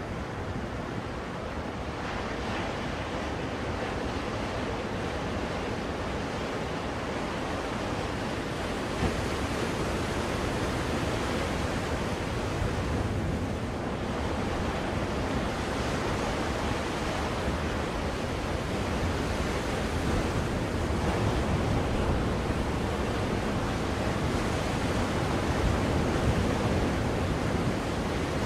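Ocean surf used as a white-noise track: a steady rushing wash of waves with slow, gentle swells in loudness.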